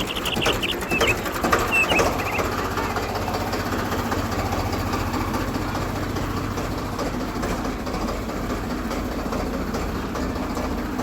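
A small motor running steadily with a low hum, with a few clicks and short high chirps in the first two seconds.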